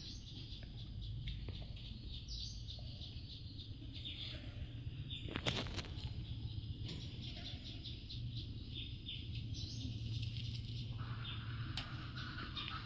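Small birds chirping rapidly and repeatedly in the background over a steady low hum, with one sharp click about five and a half seconds in.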